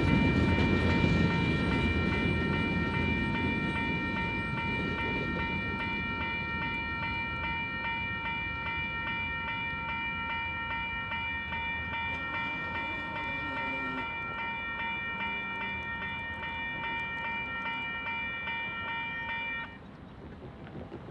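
Railroad crossing warning bell ringing steadily over the low rumble of a passing freight train, which fades gradually as the train moves off. The bell cuts off suddenly near the end as the crossing signal shuts off after the train has cleared.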